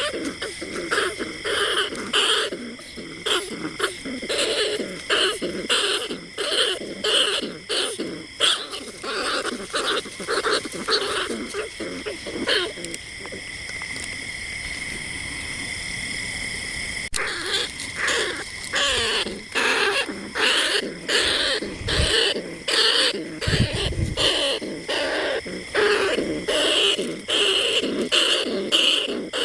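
Recorded rat calls used as a lure for bandicoot rats and rice-field rats: fast runs of short, repeated calls, several a second. They stop for about four seconds midway, leaving a steady high whine, then start again. Two low thumps come a little later.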